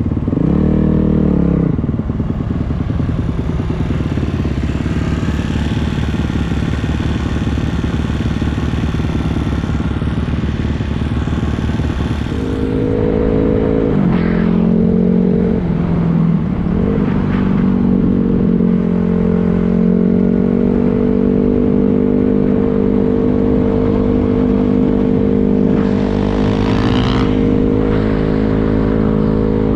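Dirt bike engine running while riding. It revs up and down briefly about a second in, runs rough and even for a while, then holds a steady pitch from about halfway through, with a few changes in pitch.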